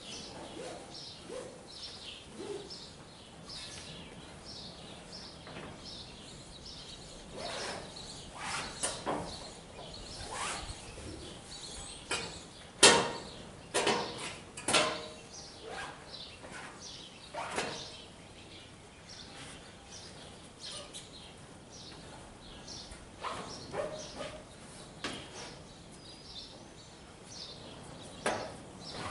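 Birds chirping throughout, with scattered knocks and clunks from hands-on work at a hay baler. The clunks come in a cluster near the middle, the loudest about thirteen seconds in.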